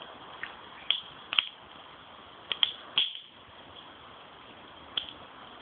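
Campfire crackling: several sharp pops and snaps of burning wood, irregularly spaced, over a steady low hiss.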